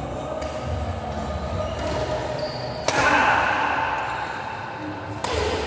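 Play echoing in a large sports hall: a sudden loud sound about three seconds in rings on and fades slowly, and another starts just before the end.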